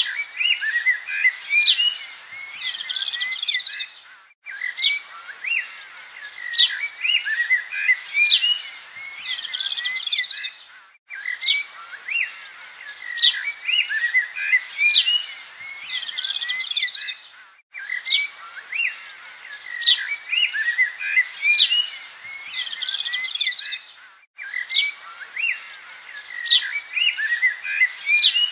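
Looped birdsong track: many birds chirping and twittering, the same stretch of about six and a half seconds repeating, with a brief dropout between repeats.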